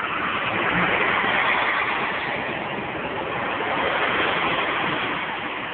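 Northern Ireland Railways diesel multiple unit passing close by: a steady rush of wheel and engine noise that swells at the start and eases off near the end.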